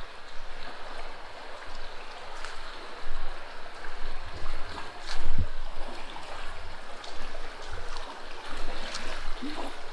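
Steady running-water noise with scattered light ticks and a low thump about five seconds in.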